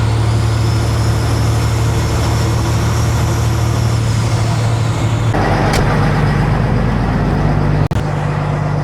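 Kenworth W900 semi truck's diesel engine running steadily, heard from inside the cab. Its note changes abruptly about five seconds in, and there is a brief dropout near the end.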